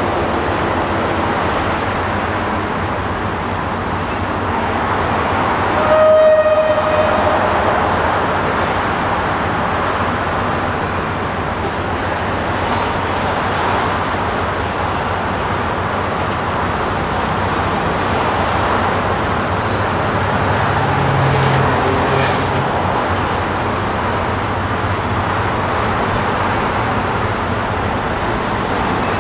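Steady noise of a Thai passenger train standing beside the track and starting to roll past, with a short horn toot about six seconds in.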